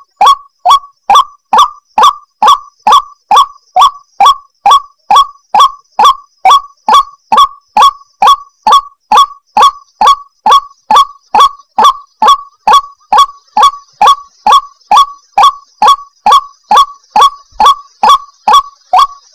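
White-breasted waterhen (ruak-ruak) calling: a loud, short note repeated very steadily about two and a half times a second, each note falling in pitch. It is the bird's call used as a lure for wild waterhens.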